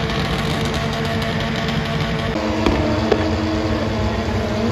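Car engine running loud and steady as a car does a tyre-smoking burnout.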